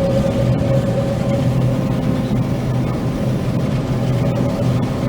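John Deere 9500 combine running steadily while cutting soybeans with a 925 flex head: an even drone of engine and harvesting machinery with a few constant hum tones.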